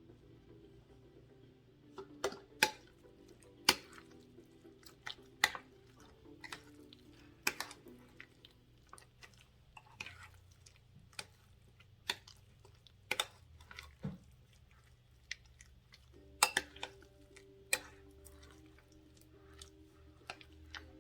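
A spoon knocking and scraping against a bowl while mixing shredded chicken with mayonnaise: sharp, irregular clicks about once a second. Faint background music runs underneath.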